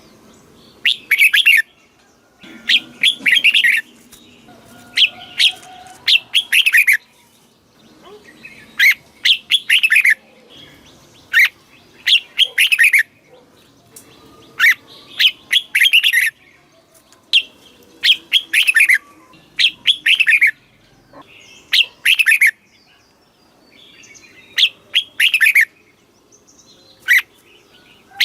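Red-whiskered bulbul singing: short, quick whistled phrases repeated about every two seconds.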